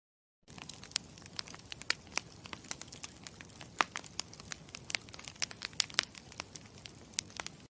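Campfire crackling: irregular sharp pops and snaps over a low steady hiss. It starts after about half a second of dead silence and cuts off abruptly near the end.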